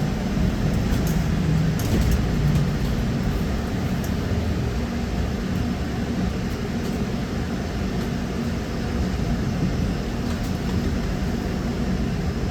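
Inside a moving trolleybus: steady running noise of the tyres and running gear, with a low hum and a few small clicks and rattles.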